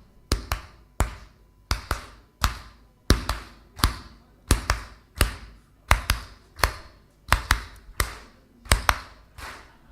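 Hand claps keeping a steady clap-along beat, a sharp clap roughly every two-thirds of a second with some coming in quick pairs, each ringing briefly in the hall.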